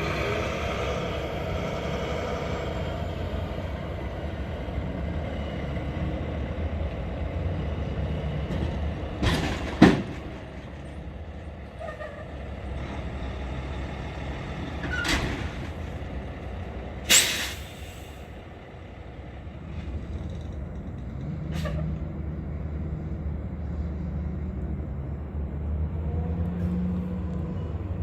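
Four-engine Boeing 747 freighter's jet engines during landing: a steady low rumble with a whine in the first few seconds. A few sharp knocks cut in about ten, fifteen and seventeen seconds in.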